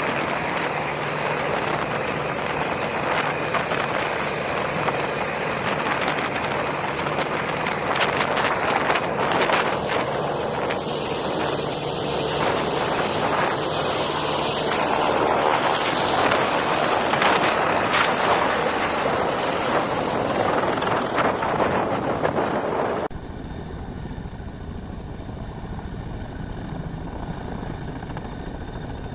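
Helicopter rotor and engine noise, dense and loud. About 23 seconds in it cuts abruptly to a quieter, duller recording of similar steady noise.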